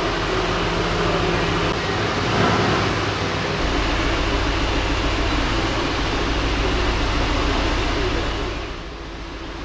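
A car driving: steady engine and road noise, dropping away near the end.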